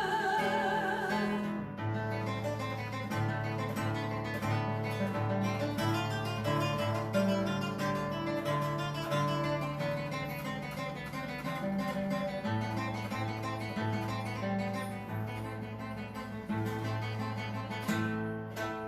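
Acoustic guitar playing an instrumental interlude of a slow song, with a moving bass line under held chords. The singer's last held note, with vibrato, fades out in the first second or two.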